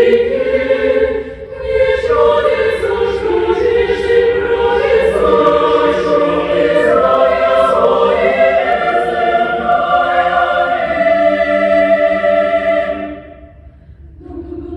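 Choir singing sustained chords. There is a short break about a second and a half in, the phrase ends about a second before the end, and a quieter chord enters near the end.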